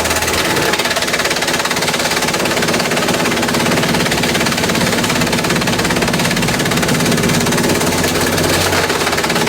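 Industrial bamboo shredder running: a steady machine drone with a dense, rapid clatter over it.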